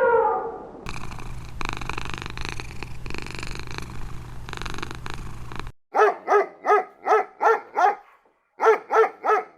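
A cat purring steadily for about five seconds, then a dog barking in quick runs of short, sharp barks, about three a second, with a brief pause between the runs.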